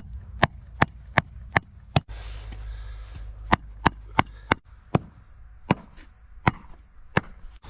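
A blade chopping through hard, dried cured pork ribs. About a dozen sharp chops come about two to three a second, in three runs with short pauses between them.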